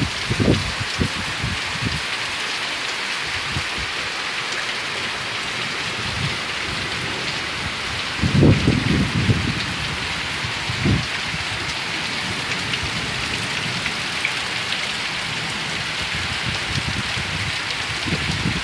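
Heavy rain pouring steadily onto banana plants and a muddy dirt road, with a few brief low rumbles, the loudest about eight seconds in.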